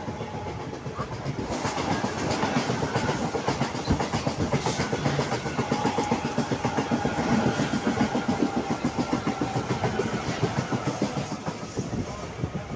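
Mumbai suburban electric local train running, its wheels clattering over rail joints in a quick, steady clickety-clack, heard through an open window grille. A second train passes close alongside, louder from about a second and a half in and easing off near the end.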